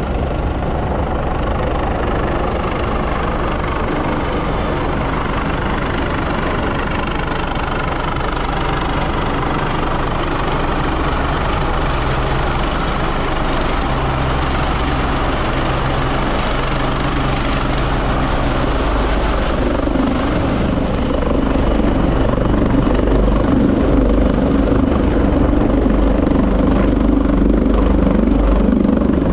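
Helicopter rotor and engine noise running steadily, growing louder about two-thirds of the way through.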